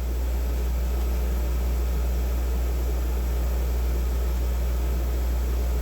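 Steady low hum with an even hiss over it, from the aquarium's filters running.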